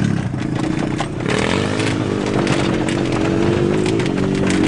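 Truck engine running at low, slightly wavering revs, heard from inside the cab, with scattered light rattles and clicks over it.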